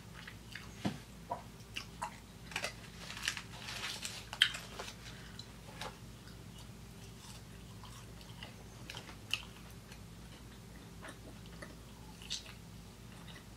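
A person chewing a mouthful of cheeseburger, then Cajun fries, with soft wet mouth clicks. The chewing is busiest in the first few seconds and sparser after.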